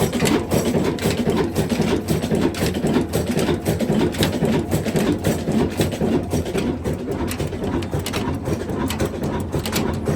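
Diesel engine running with a rapid, even clatter.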